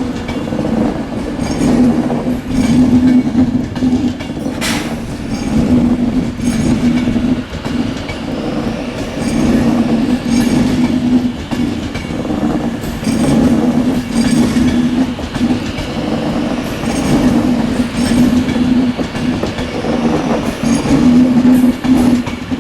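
Class 390 Pendolino electric train pulling out of the station, its wheels clacking over rail joints in a steady rhythm under a low hum. There is one sharp click about five seconds in.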